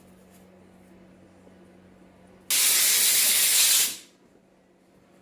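One short blast from a pressurised jet, the kind used to clean carburettor parts, hissing for about a second and a half; it starts abruptly about two and a half seconds in and tails off.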